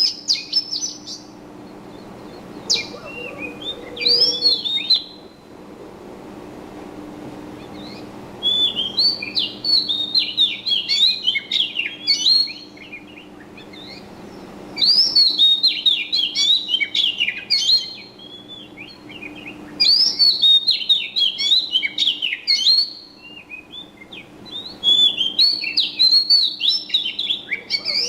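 Songbird chirping and twittering in bouts of rapid, high notes, each bout lasting a few seconds with short pauses between them.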